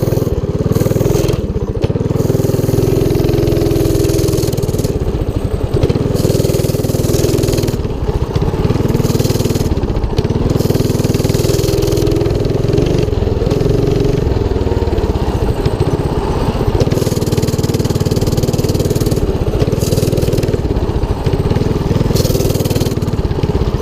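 The 212cc single-cylinder four-stroke engine of a Motovox mini bike running while being ridden, its engine speed rising and falling with the throttle.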